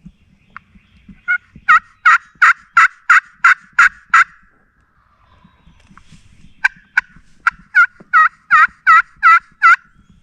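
Two runs of loud turkey yelps, evenly spaced at about three a second, nine or ten notes in each run, with a pause of about two seconds between the runs.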